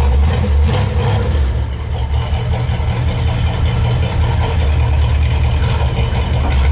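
An old Ford car's engine running steadily with a loud, deep low rumble.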